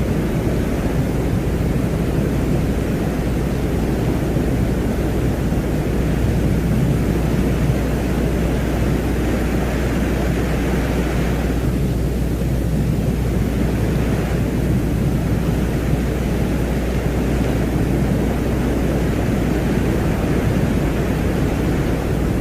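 Ambient space-sound track presented as the sound of Venus: a steady, deep rumbling noise with a low hum beneath it, and a fainter higher hiss that swells and fades in the middle.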